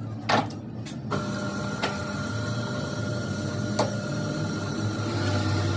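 A workshop machine's motor starts about a second in and runs steadily with a whining tone. There is a sharp metallic knock just before it starts, and a few more clicks while it runs.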